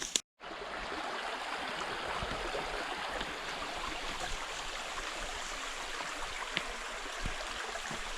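Small river running: a steady rush of flowing water, starting after a short break right at the beginning.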